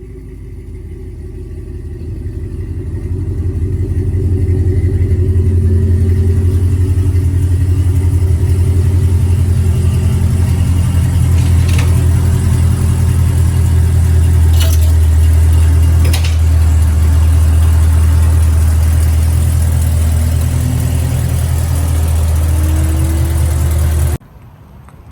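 Supercharged V8 of a 2019 Camaro ZL1 running with a steady low exhaust note that builds over the first few seconds. A few faint clicks come in the middle, and the sound cuts off abruptly near the end.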